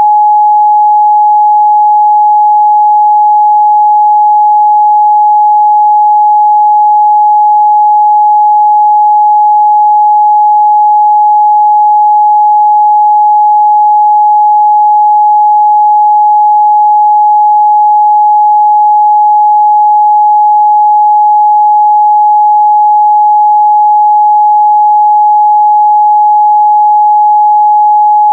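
A steady, loud 841 Hz sine-wave test tone, one pure pitch held without change.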